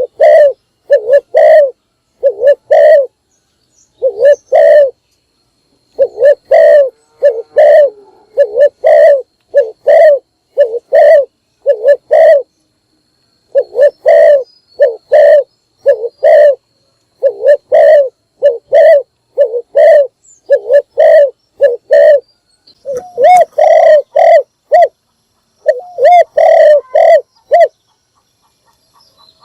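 Spotted dove cooing, a steady series of short, low coos in runs broken by brief pauses: a decoy bird's call for luring wild doves.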